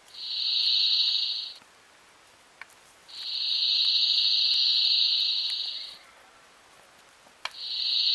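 A singing insect buzzing in three trills that each swell and fade: a short one, a longer one of about three seconds, then a third that starts near the end.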